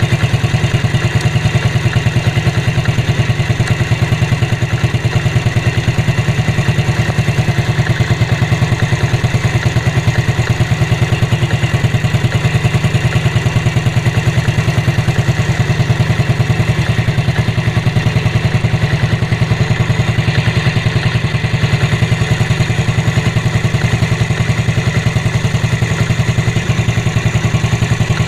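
Motorcycle engine idling steadily with a fast, even pulse, test-run after its fuel cock was replaced to cure sputtering and fuel overflow.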